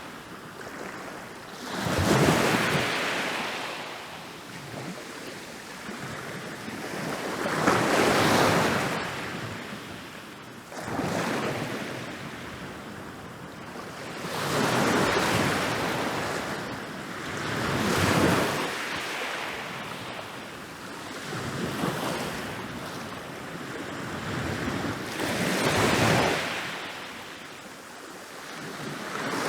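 Ocean waves breaking on a beach, a wave crashing every few seconds and washing back between breaks.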